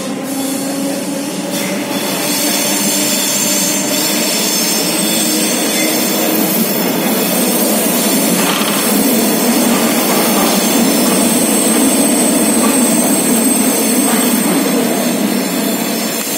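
S-Bahn electric train heard from inside the carriage as it accelerates out of an underground station into a tunnel: the traction motors whine, rising slowly in pitch, under the loud steady rumble of wheels on rails. The running noise grows louder partway through, and a thin high squeal comes in after about eleven seconds.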